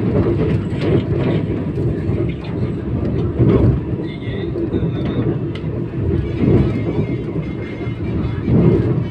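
Vande Bharat Express train running, a steady low rumble inside the chair-car coach, with louder surges every few seconds.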